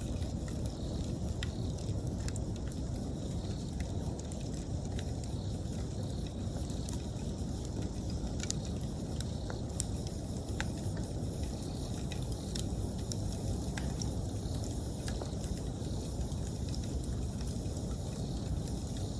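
Wood campfire crackling, with scattered sharp pops over a low steady rumble of the burning fire. Autumn insects chirp steadily in the background.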